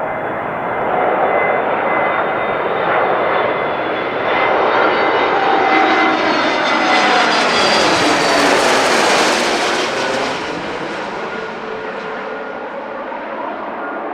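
Aircraft engines passing close by during a take-off or landing, building to a peak about nine seconds in and then fading, with the engine pitch falling as it goes past.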